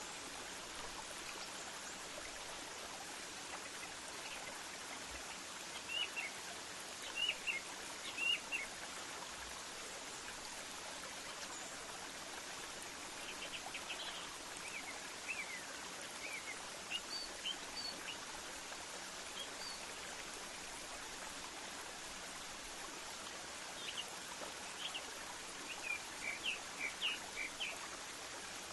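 Small birds chirping in scattered clusters of short, high calls, over a steady hiss like running water.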